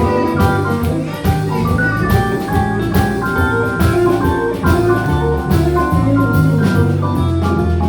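Live blues band playing an instrumental passage with no vocals: drum kit keeping a steady beat under bass and melodic instrument lines.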